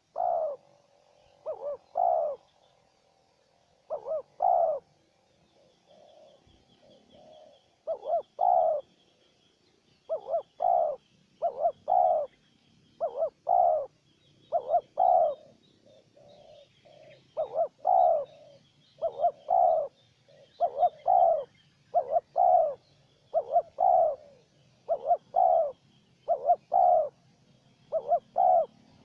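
Spotted doves (terkukur) cooing, a decoy and a wild bird calling back and forth: short, low coos, mostly in pairs, repeated about every second or two.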